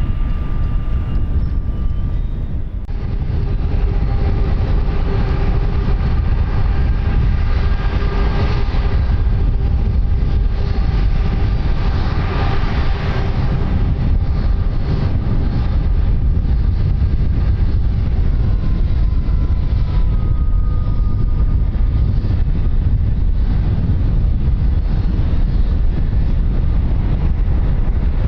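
Aircraft engine noise: a steady deep rumble with several steady tones above it, growing louder about three seconds in.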